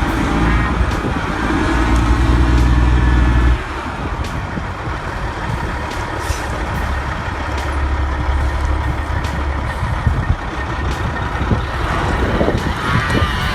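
A heavy engine running loud and steady, dropping abruptly to a lower, steady hum about three and a half seconds in.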